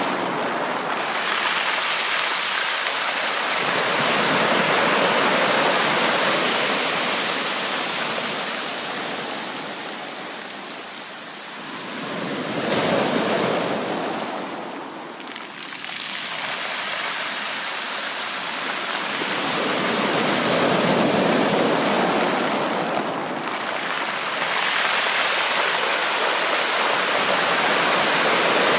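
Ocean waves breaking on a beach, a steady wash of surf that swells and falls back as each wave comes in and recedes.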